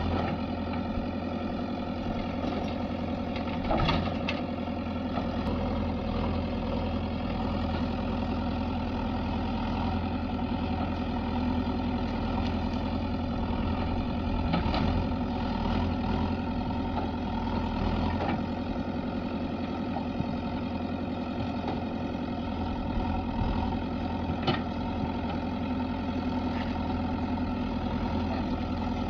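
Diesel engines of a JCB 3DX backhoe loader and a tractor running steadily while mud is loaded, with a few sharp knocks now and then.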